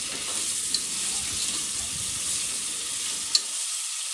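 Sliced onions and tomatoes sizzling in hot oil in a pressure cooker as they are stirred and sautéed with salt, a steady frying hiss. A couple of light clicks come through, one about a second in and a sharper one near the end.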